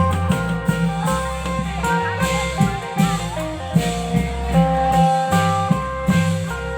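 A klong yao band playing: a plucked-string lead melody with held and bent notes over a steady bass line and regular drum beats.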